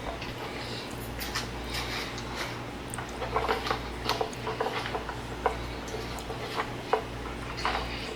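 Rubbing-alcohol pad rubbed over a bare LCD screen to lift leftover adhesive, with irregular small clicks and scrapes of handling over a steady low hum.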